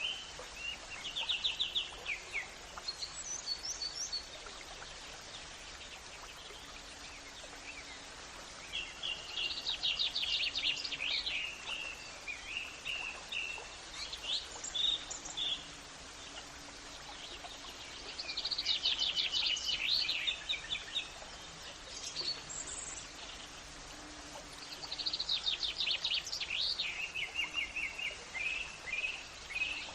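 Songbirds singing in phrases of rapid trilled notes followed by a few separate chirps, a new phrase every several seconds, over a steady background hiss.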